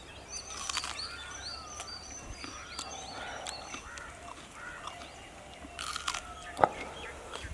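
Small birds chirping over and over, mixed with scattered clicks and one sharp knock about six and a half seconds in.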